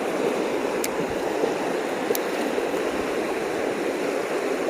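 Creek water running steadily, with two faint ticks about a second apart.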